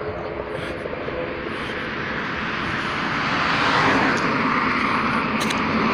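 Aircraft engine noise, a steady rushing drone that grows gradually louder from about halfway through, as an aircraft passes overhead.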